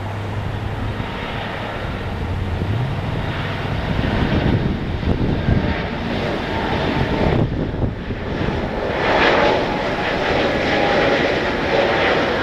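Airbus A321neo's Pratt & Whitney PW1100G geared turbofan engines running at takeoff power during the takeoff run. A low steady tone rises in pitch about three seconds in, and the roar grows louder, dips briefly near the middle, then steadies at its loudest in the last few seconds.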